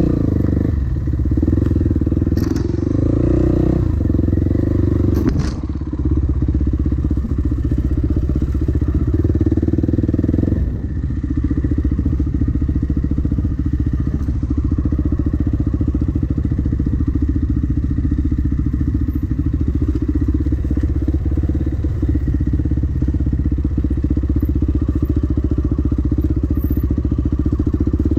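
Dirt bike engine running as it is ridden along a trail, steady with small throttle changes, with a couple of sharp knocks in the first few seconds.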